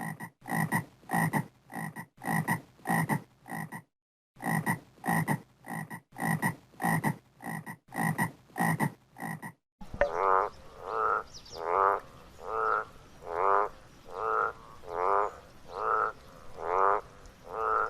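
Frogs croaking: a run of short croaks, two or three a second, then, about ten seconds in, a different frog's longer rattling calls, rising slightly in pitch, about one a second.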